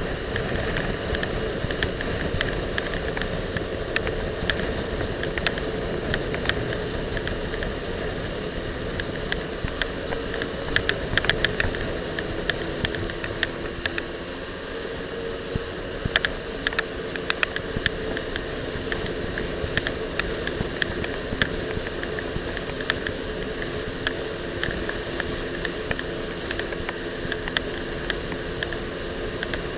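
Jet ski engine running at a steady pitch over rushing water and wind. Frequent sharp clicks and knocks come from the loosely attached action camera rattling on the rider's life vest.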